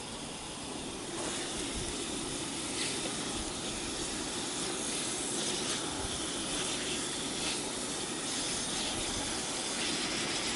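Pork belly sizzling in a cast-iron skillet over a wood fire: a steady hiss that grows louder and brighter about a second in.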